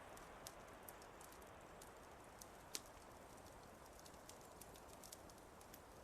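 Wood fire crackling softly: scattered sharp pops and ticks, one louder pop a little before halfway, over a steady low hiss.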